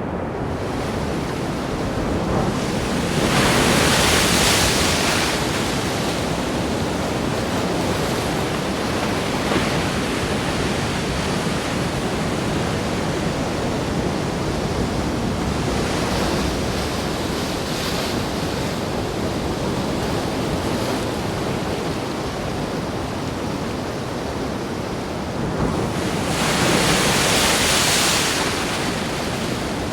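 Stormy sea and wind: a steady rush of surf, swelling twice as heavy waves break, about three seconds in and again near the end.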